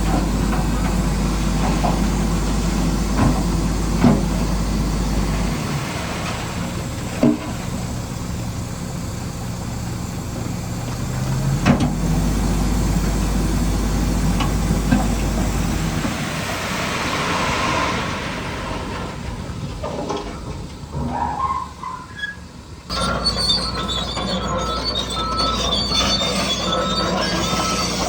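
Whining electric motors and gearboxes of radio-controlled construction models. A low hum starts and stops several times, with scattered sharp clacks, and high steady whining tones come in near the end.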